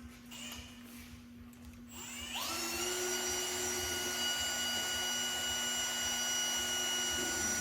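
Electric drill spinning up about two seconds in, then running steadily at a high whine, as it turns a mixing paddle to stir the two-part seat foam.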